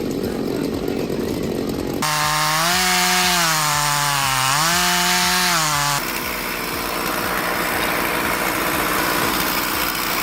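Two-stroke chainsaw cutting vertically through thick timber at full throttle. Its engine note sags and recovers as the bar loads up in the wood, with abrupt jumps in the sound about two and six seconds in.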